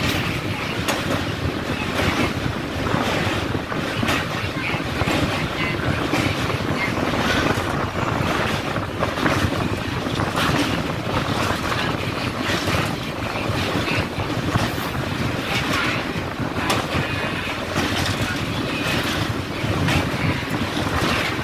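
Rumble and clatter of a passenger train's wheels running over a steel truss railway bridge, heard from on board through an open window or door, with irregular clanks throughout and wind buffeting the microphone.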